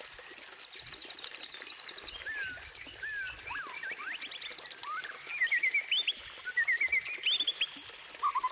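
White-rumped shama (murai batu) singing a varied song: a fast, high rattling trill about half a second in, then separate slurred whistles, then short series of quick rising notes.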